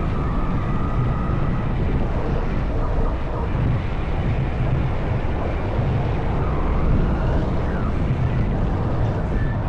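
Honda CB190R's single-cylinder engine running steadily under way, a constant low rumble mixed with road noise.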